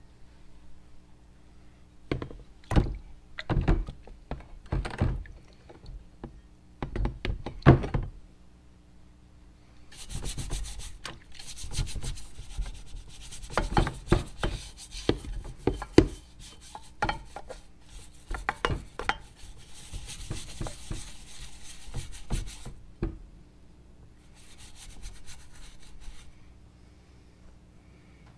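Hand work on the metal parts of a vintage meat grinder being restored: a few clusters of knocks, then about thirteen seconds of rubbing or scraping with knocks mixed in, fading out near the end.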